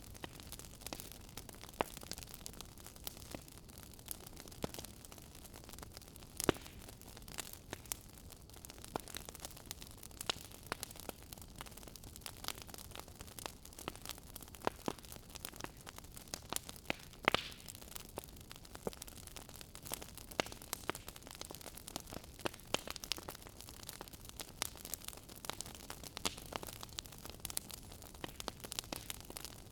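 Wood fire burning in a fireplace, a steady soft hiss with frequent irregular sharp crackles and pops.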